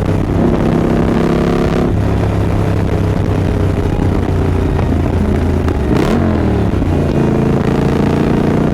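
2024 Triumph Scrambler 900's parallel-twin engine running under way. Its pitch shifts about two seconds in and again about six seconds in, the second time with a short sharp click.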